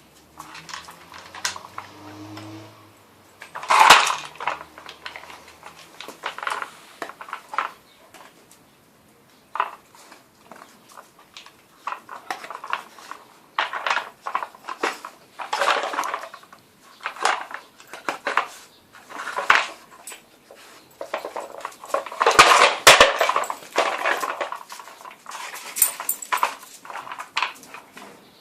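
Dog working a Nina Ottosson Dog Tornado puzzle toy: its plastic tiers clatter and knock in irregular bursts as they are nosed and pawed around in search of treats.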